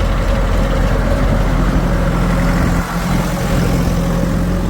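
Heavy diesel engine of a tractor or backhoe loader running steadily at a low, even pitch, with a brief dip about three seconds in.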